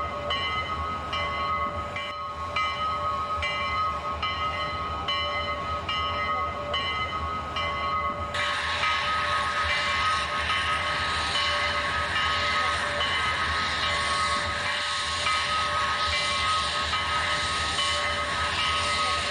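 Steam locomotive running over a steady low rumble, with a steady hiss joining about eight seconds in.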